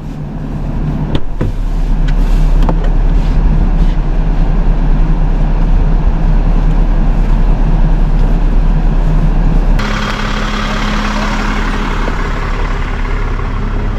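Tow truck running on the road, heard from inside the cab as a steady engine hum. About ten seconds in the sound changes abruptly, a little quieter, with more hiss.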